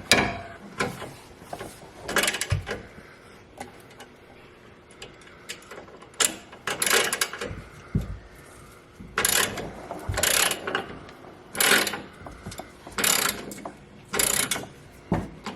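Hand ratchet clicking in short bursts of quick strokes as the stock exhaust's bolts are worked loose, the bursts coming about once a second in the second half.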